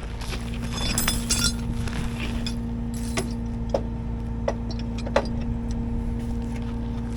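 Tow truck engine running with a steady hum, a steady tone setting in just after the start. A metallic jingle comes about a second in, then a handful of sharp clicks a little under a second apart.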